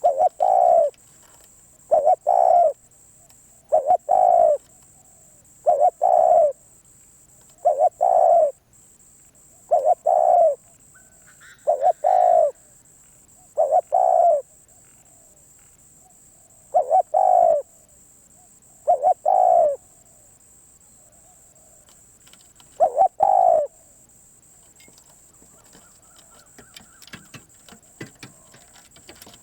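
Spotted dove cooing: a short, low coo phrase repeated about every two seconds, eleven times, stopping about 24 seconds in. Faint clicks and rattles follow near the end.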